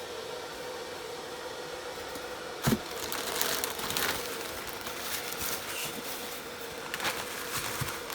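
Rustling and crinkling of packaging as new shoes are unpacked, with a sharp knock a little under three seconds in, over a steady hum.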